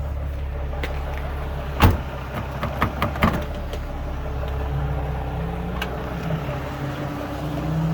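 Nissan 350Z's VQ35DE V6 running with a rod knock, a steady low engine sound with a few sharp pops about two and three seconds in.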